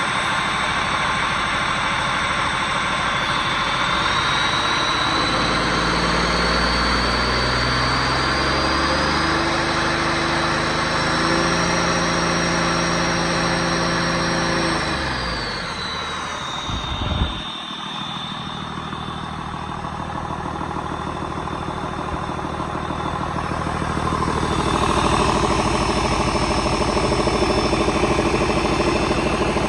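A 2008 Hino J08E-TV 7.7-litre turbo-diesel engine running. It is revved up in steps and held, with a high whine climbing with the revs, then drops back toward idle. There is a short thump as it settles, and the revs rise a little again near the end.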